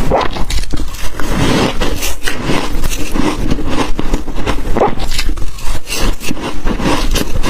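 Close-miked ice being bitten and chewed: a continuous run of sharp crunches and crackles, with no pauses.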